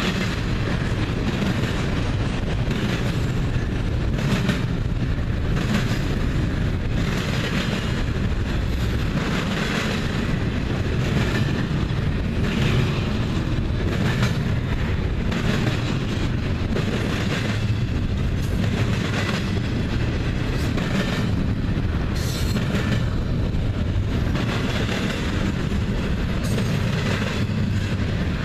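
Double-stack container cars of a BNSF freight train rolling past: a steady loud rumble with repeated clacks of wheels over the track.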